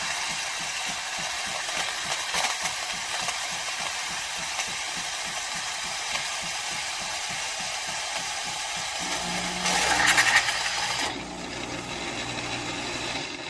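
Philips 4300 LatteGo espresso machine frothing milk: a steady steam hiss over a fast, even pulsing of the pump. About nine seconds in a lower machine hum joins and the sound swells briefly, then it all cuts off suddenly near the end.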